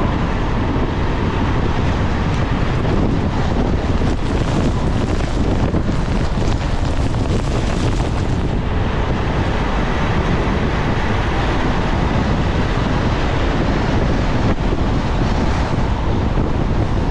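Wind buffeting an action camera's microphone: a loud, steady rushing noise with a heavy low rumble.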